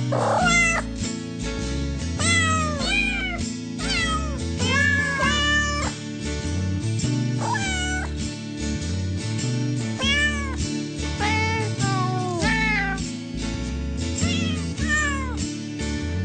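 A cat meowing over and over in short rising-and-falling meows, over background music.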